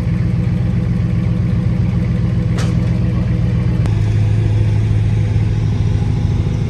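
A vehicle engine idling steadily, with a sharp click about two and a half seconds in and another about a second later, when the engine note drops slightly lower.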